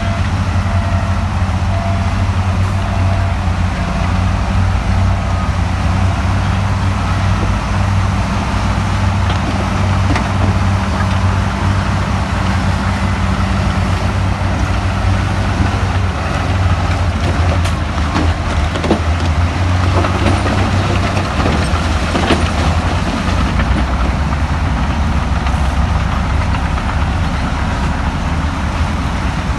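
Heavy diesel engine of earthmoving machinery, a bulldozer or dump truck, running steadily with a deep low hum. A few sharp knocks come through in the second half.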